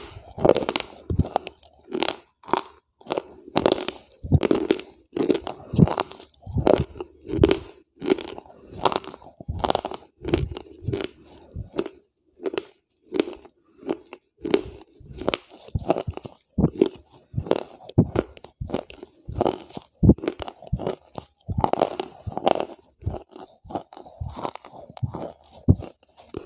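Crunchy snack chips being chewed with the mouth closed, right at a lapel microphone held to the lips, crunching in a steady rhythm of about two chews a second.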